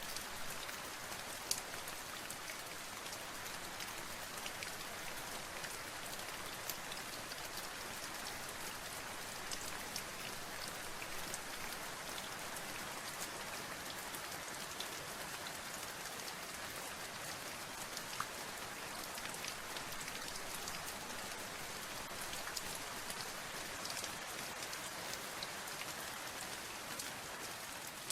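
Steady rain falling on a surface, a continuous patter with many distinct individual drop impacts ticking through it.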